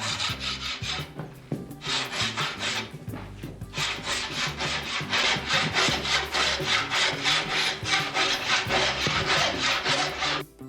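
Hand saw cutting through a thick beech blank in rapid back-and-forth strokes: two short spells, then a steady run from about four seconds in that stops abruptly near the end.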